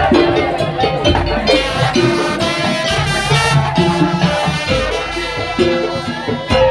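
Madurese daul (tongtong) ensemble playing loud live music: a pitched melody over steady, driving percussion.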